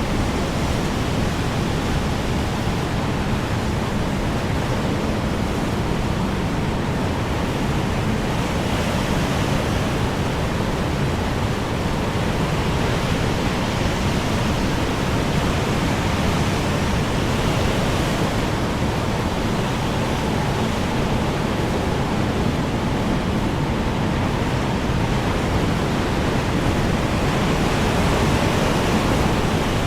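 Strong wind blowing steadily, a dense rushing noise heaviest in the low end that swells gently now and then.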